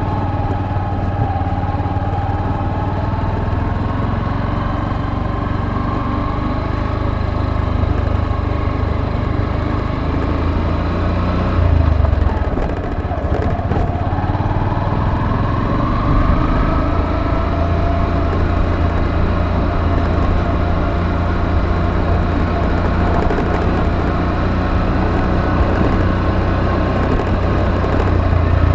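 Motorcycle engine running under way, its pitch easing and climbing as the throttle changes: it drops away briefly just before halfway, then rises again and holds steady, over a continuous rumble of road and wind noise.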